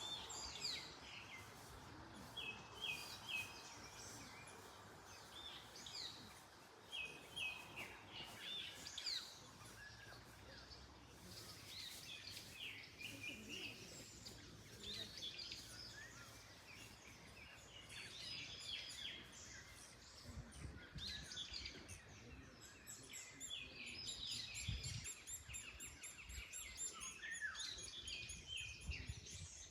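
Several songbirds chirping and singing in short, repeated phrases throughout, over a faint steady background of wind, with some low gusts of wind a little past the middle.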